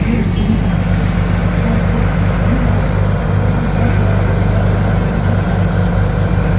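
Vehicle engine idling steadily, a low, evenly pulsing note with no change in speed.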